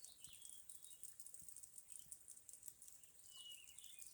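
Faint, rapid high-pitched crackling and snapping from flying insects, which the hiker takes for cicadas, going on without a break. A few short high chirps and a thin whistle from birds sound over it, one a little past the middle.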